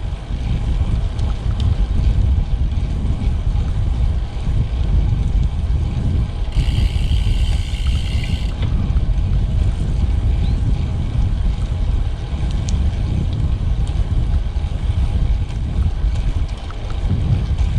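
Wind buffeting the microphone of a bike-mounted camera on a moving road bike, a steady low rumble, with a brief higher whine about seven seconds in.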